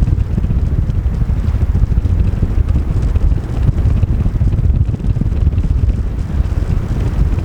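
Wind buffeting the microphone: a loud, gusty low rumble that flutters unevenly.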